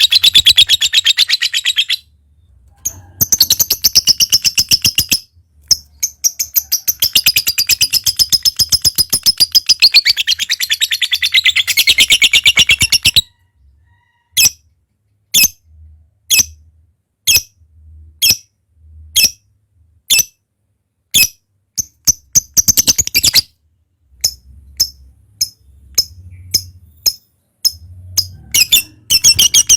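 Lovebird chattering in long, very rapid high-pitched runs (the 'ngekek' trill), then switching to single sharp chirps about once a second through the second half, with brief runs of chatter breaking in again near the end.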